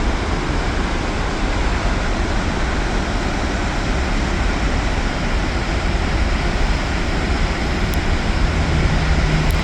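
Steady rush of water pouring through Kinzua Dam, an even roar with a strong low rumble. A low steady hum joins near the end.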